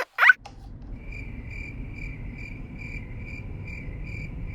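A cricket chirping in a steady rhythm, about three chirps a second, over a low rumble. A short, loud rising squeak comes just before the chirping starts.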